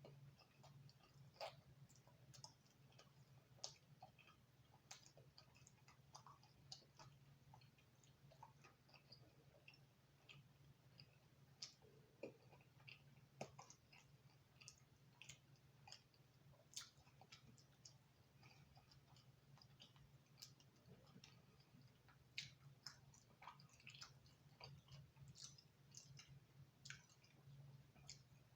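Faint chewing of thin, crispy-crust pizza: irregular small mouth clicks and crunches, over a steady low hum.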